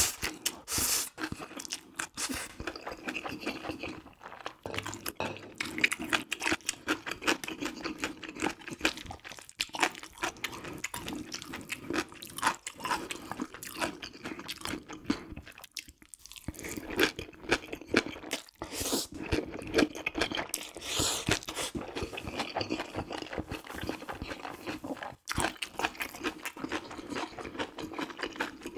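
Close-miked chewing of jjajang ramyeon (black-bean-sauce instant noodles) with beef topping: a steady run of wet mouth smacks and clicks, breaking off briefly about sixteen and twenty-five seconds in.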